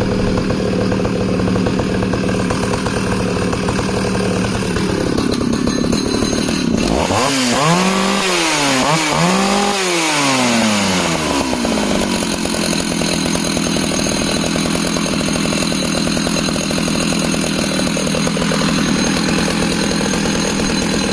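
Jonsered 820's 81cc two-stroke chainsaw engine running at high revs while cutting through a log. Its note drops about four seconds in, dips and rises twice a few seconds later, then holds steady under load until it cuts off near the end.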